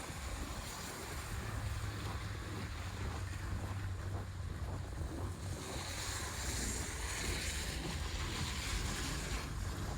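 Steady rushing outdoor noise of wind on the microphone and the street during a snowstorm, with a low rumble underneath; the hiss grows brighter for a few seconds past the middle, then drops back.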